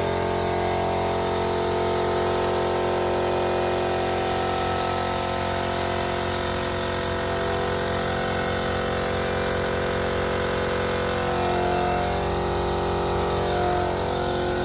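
Air compressor motor running steadily, with a high hiss of air that stops a little under halfway through.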